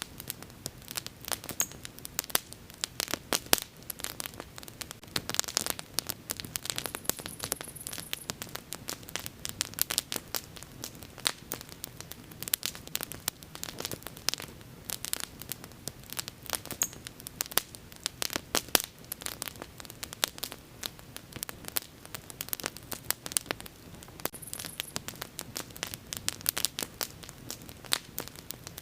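Wood bonfire burning and crackling, with irregular sharp pops and snaps over a low hiss.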